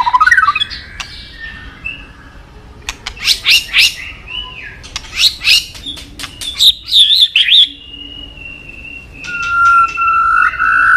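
White-rumped shama singing a run of rapid, varied phrases with sharp clicking notes and quick sweeping whistles, then a long held whistle near the end.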